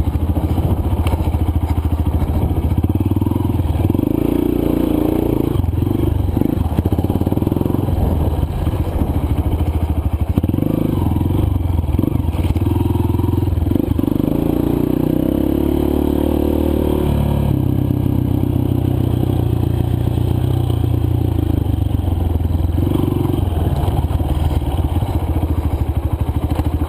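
Honda CRF230 dirt bike's single-cylinder four-stroke engine running while riding a trail, the engine note rising and falling with throttle and gear changes.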